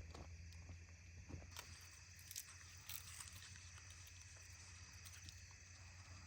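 Near silence, with a few faint crunches and rustles of onions being handled, mostly in the first three seconds.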